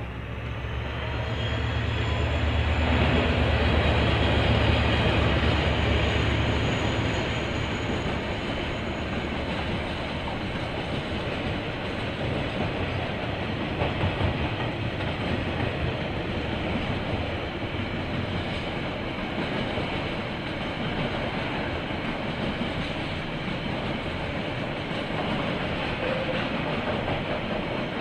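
KiwiRail diesel train passing: the locomotive's deep engine drone builds to its loudest a few seconds in and fades away, then a long steady rumble of wagons rolling by on the rails.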